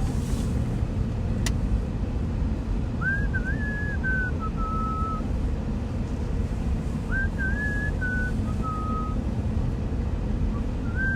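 A person whistling a short stepped tune twice, over the steady low rumble of a car's engine and tyres heard from inside the cabin.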